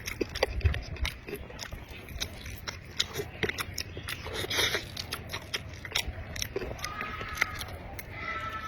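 Close-miked eating: a person chewing and biting food, with irregular wet mouth clicks and smacks.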